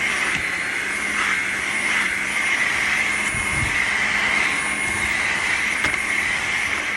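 Dreame H12 Pro wet-dry vacuum running steadily as it mops and vacuums a muddy floor: a constant high whine over a low hum, with a few soft bumps about halfway through.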